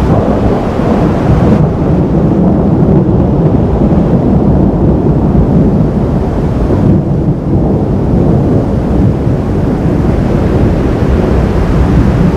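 Thunder rumbling during a thunderstorm, a loud, steady low rumble with no sharp crack.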